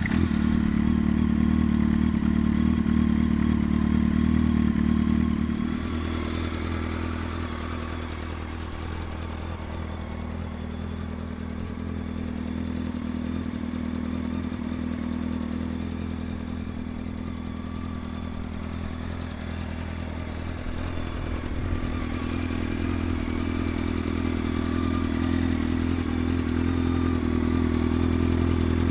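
Honda CBR1100XX's 1137 cc inline-four engine idling steadily just after starting. It is louder for the first few seconds, settles lower, then grows louder again toward the end.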